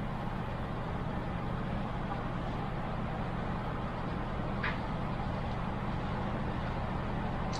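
Steady low hum with an even hiss, and one brief faint click a little over four and a half seconds in.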